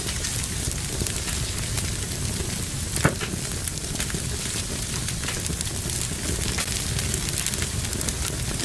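Wood fire burning in a fireplace, crackling steadily with many small snaps, and one louder pop about three seconds in.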